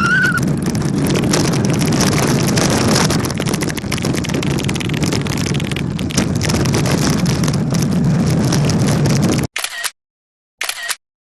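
Hard plastic wheels of a Little Tikes Cozy Coupe toy car rolling fast over driveway pavement: a steady rattling rumble with many small knocks from the bumpy surface. It cuts off suddenly about nine and a half seconds in.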